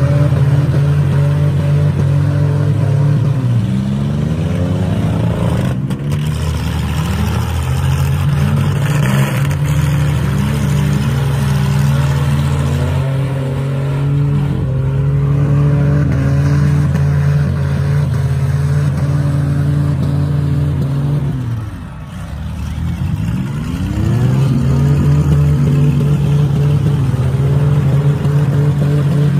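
Demolition-derby minivan engines running hard and revving up and down as the vans ram and shove each other. The engine note sinks and goes quieter a little past two-thirds of the way in, then revs back up.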